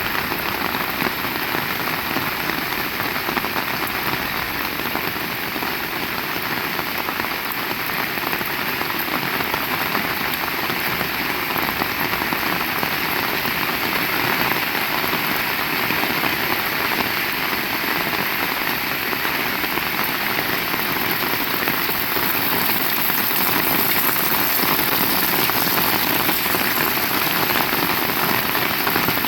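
Heavy rain falling, a dense steady patter that grows slightly louder over the last several seconds.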